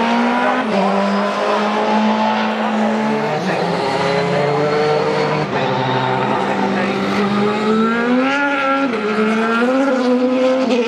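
A field of sports-prototype and GT race cars racing at speed just after the green flag, several engines overlapping, with their pitch rising and falling through gear changes.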